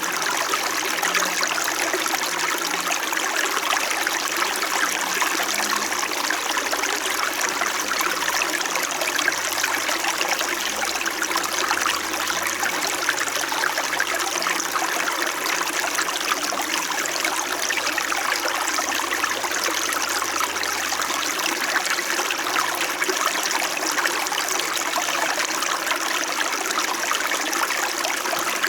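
A small mountain stream flowing steadily, a continuous gentle rush and trickle of water.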